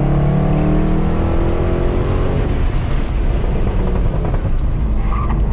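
Mercedes C63 AMG's 6.2-litre V8, with secondary cats and resonators deleted, accelerating hard, its note climbing for about two and a half seconds and then breaking up into a rough, unsteady rumble, heard from inside the cabin.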